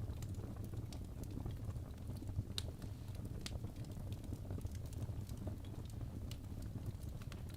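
Wood fire burning in a fireplace: a steady low rumble of flames with scattered sharp crackles and pops of burning logs.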